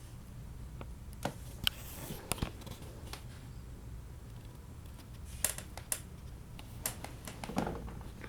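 Scattered light clicks and knocks, about a dozen of them at irregular intervals, over a faint steady low hum.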